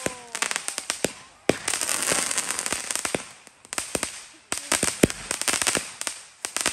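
Consumer aerial fireworks going off: a rapid run of sharp pops and bangs. A dense patch of crackling comes about one and a half seconds in, and more pops and crackle follow from about four and a half seconds.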